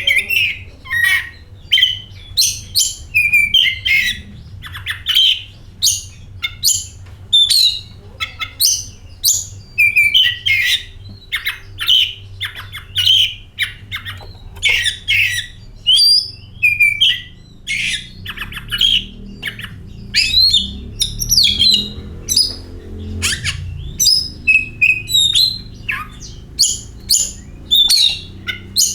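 Oriental magpie-robin (kacer) singing continuously in a rapid, busy stream of varied whistles, chirps and harsh squawky notes, over a faint low rumble.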